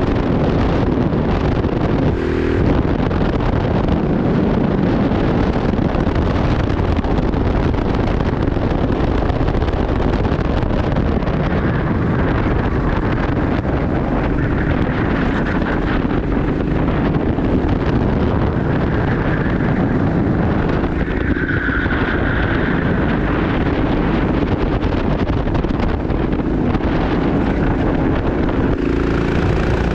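Go-kart engine running hard at racing speed, its wavering buzz half buried under heavy wind buffeting on the microphone.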